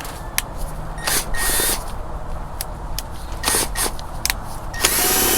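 Handheld power drill run in three short bursts with a steady whine, about a second in, at around three and a half seconds and again near the end, with small clicks of handling in between.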